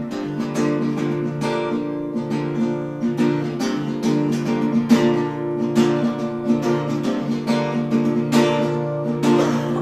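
Acoustic guitar strummed in a steady rhythm, chords ringing between the sung lines of a folk song.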